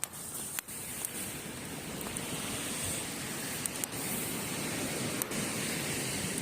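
Steady wash of ocean surf on a beach, with a few sharp pops from a crackling wood campfire.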